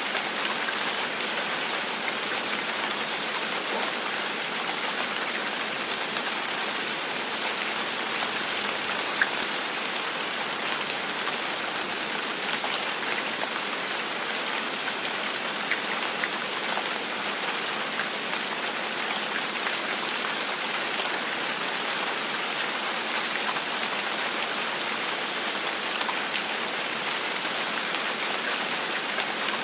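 Gentle rain falling steadily: an even hiss of rain with scattered individual drops pattering on a surface.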